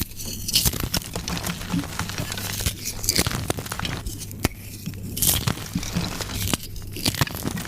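Soft, powdery gym chalk being crushed and crumbled, giving a dense, irregular crunching and crackling.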